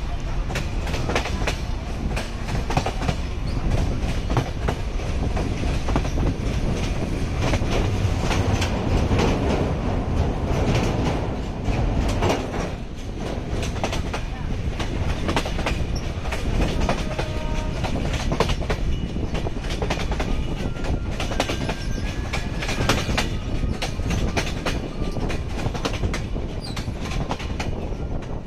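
Train running along the track, a steady rumble with the wheels clacking over the rail joints.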